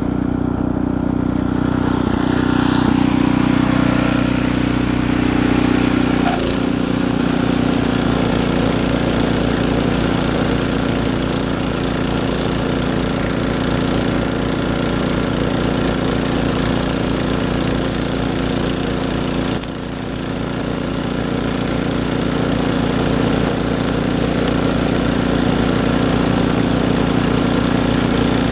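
Snowblower engine running steadily while clearing snow; its tone shifts about six seconds in, and the level dips briefly about twenty seconds in.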